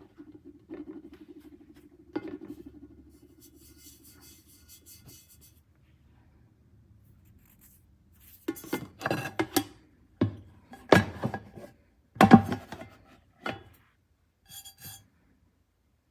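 Nonstick pots, pans and lids being handled, with a low ring after a knock in the first few seconds. Several loud clanks and clinks come later, as metal cookware pieces knock together.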